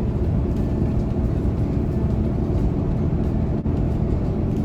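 Inside a moving bus: a steady engine drone and road rumble, with a few level engine tones over a heavy low rumble.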